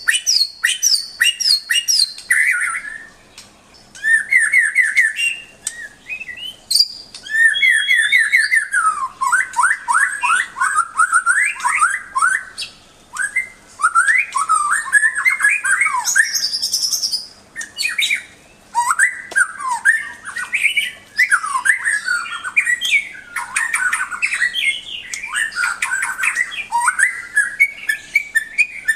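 White-rumped shama (murai batu) singing a loud, varied song of rapid whistled phrases, trills and chattering notes, with a couple of brief pauses.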